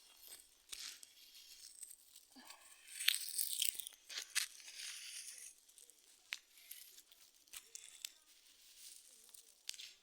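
Dry leaves and twigs crunching and rustling, with scattered sharp snaps; the busiest, loudest stretch comes about three to four and a half seconds in.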